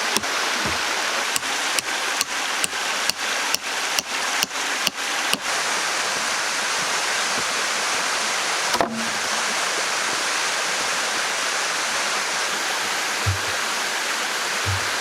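Steady rushing noise like running water, with a quick run of sharp knocks, about three a second, over the first five seconds, then two low thumps near the end.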